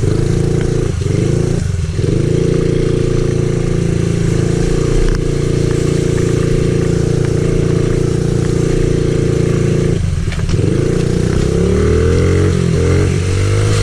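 Pit bike's small single-cylinder engine running hard on the trail, held at steady revs for most of the time. The revs drop briefly twice near the start and again about ten seconds in, then climb back up.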